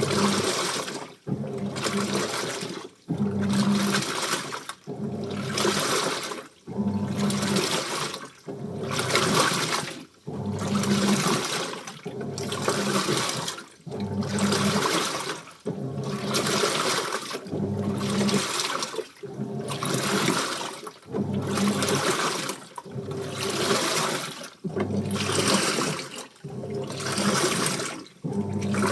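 Washing machine mid-wash, water sloshing through the laundry in even surges about every two seconds, each broken off by a brief pause, with a low motor hum under each surge.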